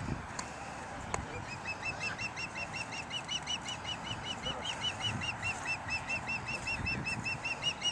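A bird calling a long run of short, rapid, evenly repeated high notes, about five a second, starting about a second and a half in and going on without a break.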